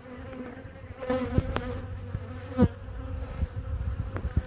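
Honeybees buzzing around an open hive: a steady hum, with a few sharp knocks a little over a second in and near the middle.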